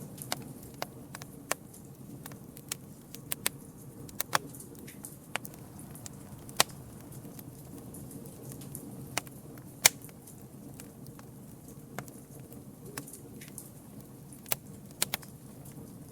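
Campfire burning with a steady low rush of flame and irregular sharp crackles and pops of wood, some of them loud, the loudest about ten seconds in.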